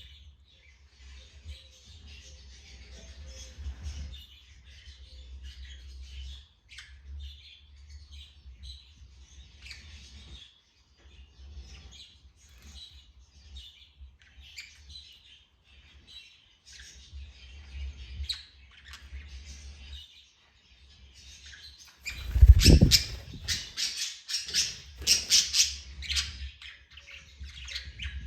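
A pet parrot chirping on and off in soft, quick chirps. About three quarters of the way in there is a loud bump, then a few seconds of much louder, sharper chirping.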